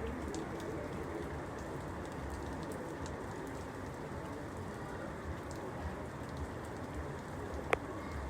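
Steady rain falling on a surface, an even hiss with scattered faint drip ticks, and one sharper tap of a drop near the end.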